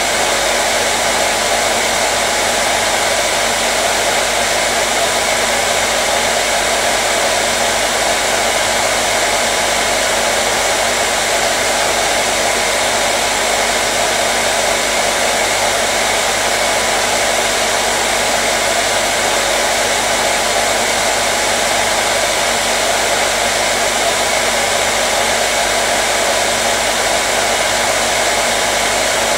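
Hair dryer running steadily, a constant loud blowing whoosh with a faint motor hum, played as white noise to soothe a colicky baby.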